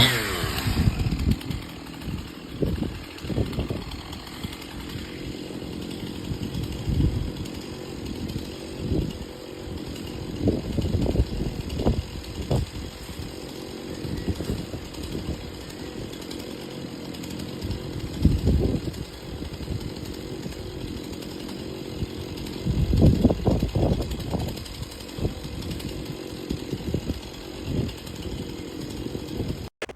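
62cc two-stroke gas chainsaw running at low speed, an uneven low-pitched chugging with louder swells now and then. The sound cuts off abruptly just before the end.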